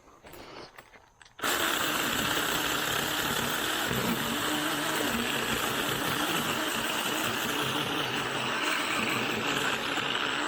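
Small cordless 6-inch mini chainsaw starting abruptly about a second and a half in, then running steadily and loudly.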